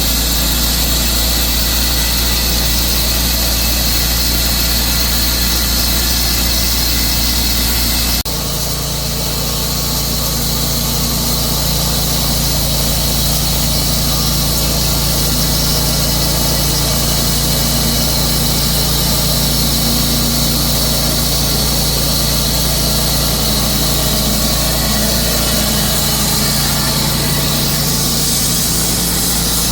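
Sawmill running steadily as it cuts through a blue pine log, with an abrupt break in the sound about eight seconds in before it carries on.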